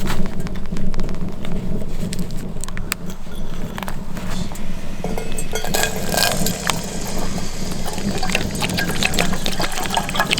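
Water being poured into a pot or kettle, over a steady low rumble. Dense crackling ticks join in from about six seconds in.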